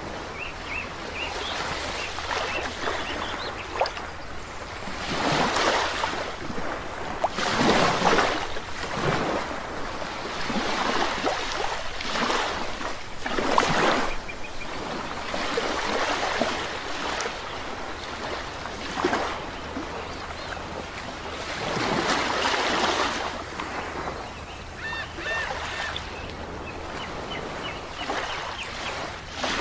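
Sea waves washing onto a shore, surging up and falling back every few seconds. Faint short bird chirps come in near the start and again near the end.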